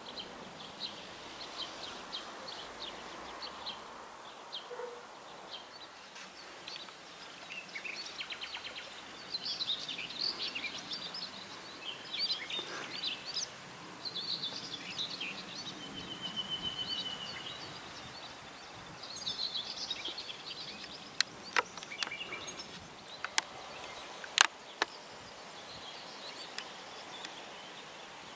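Songbirds chirping and warbling in many short phrases over a faint steady outdoor background, with a short buzzing trill about halfway through. In the second half a few sharp clicks stand out as the loudest sounds.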